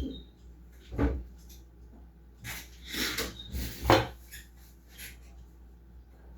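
A few separate knocks and clatters of kitchen items being handled and set down, about six in all, the loudest near the start, at one second and around four seconds in.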